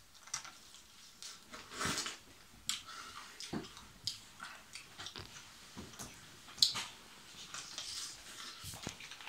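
A person biting into and chewing a whole raw lemon: irregular biting and chewing noises in short clusters, the sharpest bite about two thirds of the way through.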